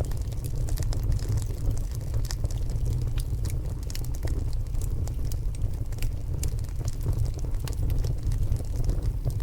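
Logs burning in a stone fireplace, crackling with many small sharp pops over a steady low rumble.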